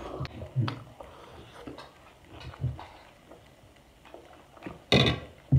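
A person eating fried cauliflower from a fork: soft chewing and mouth sounds with a few light clicks, and a short, louder noise about five seconds in.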